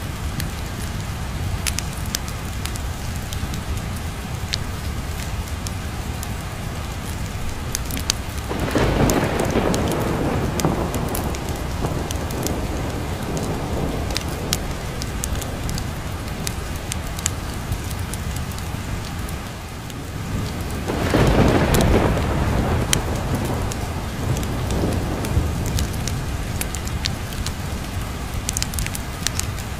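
Steady rain with two rolls of thunder, one about nine seconds in and a louder one about twenty-one seconds in, each swelling and dying away over a few seconds.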